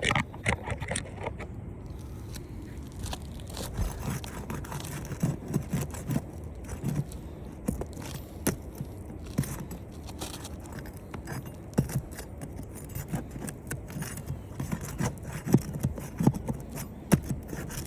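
Shingles being pried up with a roof snake, with irregular scraping, scratching and clicks as the tool works under them. The shingles tear as they are lifted off the nails.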